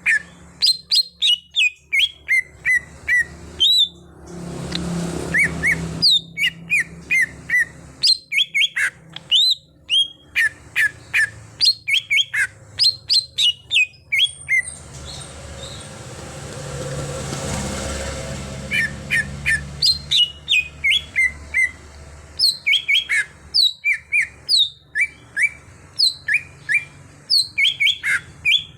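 Cucak hijau (leafbird) singing a fast run of sharp chirps and short whistled notes, several a second with brief pauses. A low rumbling noise swells up and fades twice.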